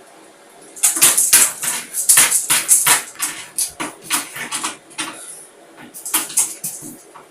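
Rapid, irregular sharp tapping and knocking, several taps a second for about four seconds, then another short run of taps near the end.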